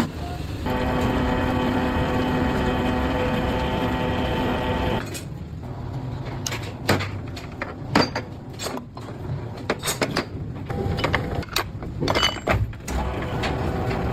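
Factory machinery: a steady machine hum that starts about half a second in and stops abruptly about five seconds in, followed by irregular clicks and clatter of parts being handled.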